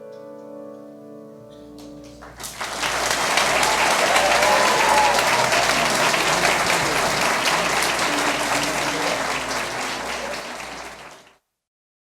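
The ensemble's last held chord dies away, then about two seconds in the audience breaks into loud, sustained applause, which cuts off abruptly near the end.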